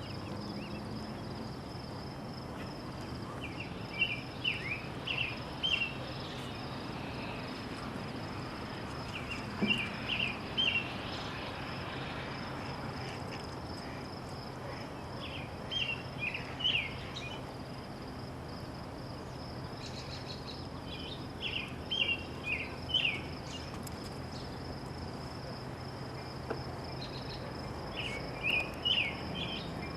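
A songbird repeating a short song of several quick notes, five times about six seconds apart, over a steady high-pitched insect hum and a soft background hiss.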